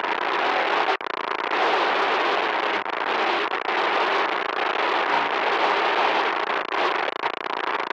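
Loud, harsh crackling static noise, a dense hiss full of fine crackles with little bass. It dips for an instant about a second in.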